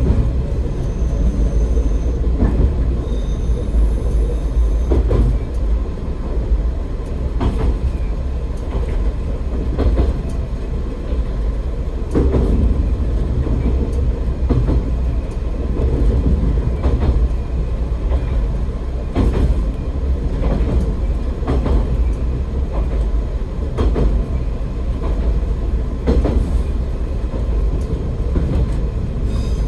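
AN-8800 diesel railcar running along the line, with a steady low rumble and a wheel knock over the rail joints about every two and a half seconds.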